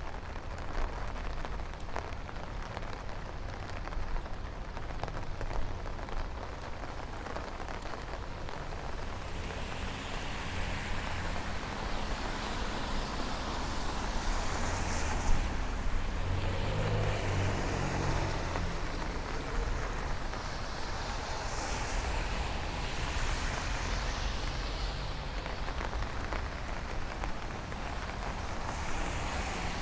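Steady rain falling, with traffic passing on the wet street; a vehicle goes by close near the middle, its tyres hissing and engine rumbling low.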